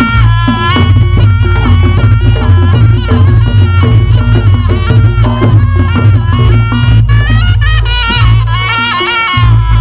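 Reog Ponorogo accompaniment music, loud: a shrill double-reed slompret (trumpet-like shawm) plays a wavering, held melody over a steady beat of drums.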